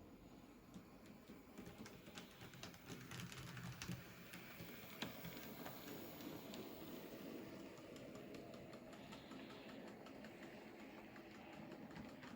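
Model electric train running on a model railway track: the wheels click irregularly over rail joints above the low hum and rumble of the locomotive motor and rolling stock, growing a little louder towards the middle.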